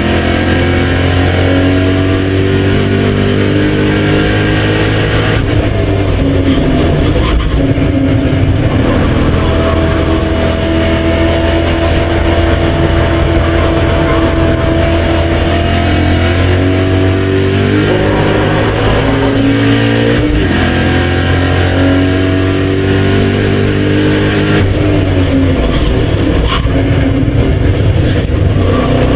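BMW E39 M5's 4.9-litre S62 V8 driven hard, its pitch climbing steadily through the revs and dropping back several times as it shifts and slows for corners.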